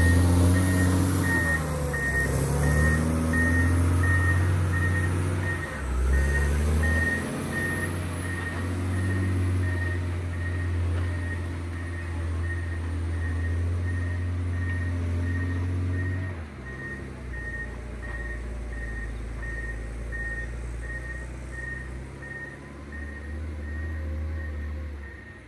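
John Deere 670 GP motor grader's diesel engine running under changing load, its pitch rising and falling, then settling lower and quieter about two-thirds of the way through. Its reversing alarm beeps steadily throughout as the grader backs up.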